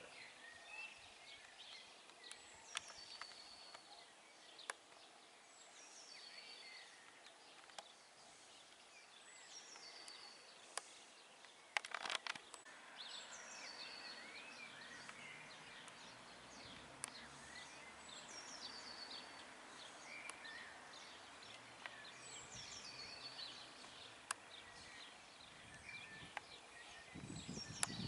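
Faint outdoor ambience with a small songbird singing short, high, falling phrases, repeated every two to three seconds. A brief cluster of sharp clicks comes about twelve seconds in.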